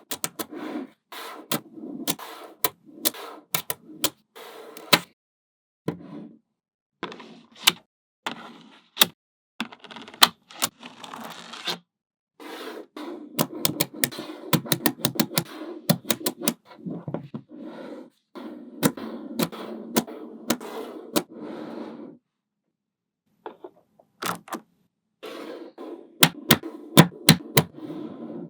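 Small magnetic balls clicking sharply as they snap together one after another, with stretches of rattling and scraping as handfuls of balls are handled and slid over a hard surface. The sound stops and starts, with short silences between bursts of work.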